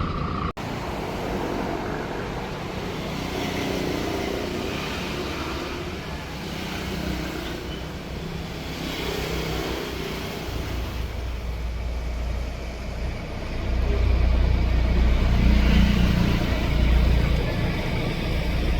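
A boat engine running steadily, with a low rumble that grows louder about two-thirds of the way through.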